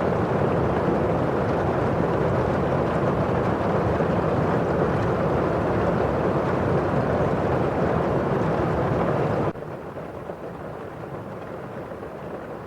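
Steady, dense rain falling against a window pane and outside. About three quarters of the way through it cuts off suddenly to a quieter, thinner rain sound.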